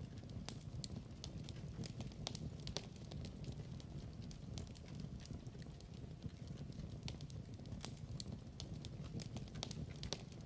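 Wood fire crackling in a fireplace: a low steady rumble of flames with irregular sharp pops and snaps scattered through it.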